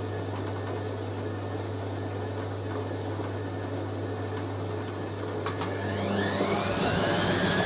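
Hoover A3060 Electronic 1100 washing machine running steadily with a low hum. About five and a half seconds in there are two short clicks, then the motor whine starts rising as the drum speeds up into a spin.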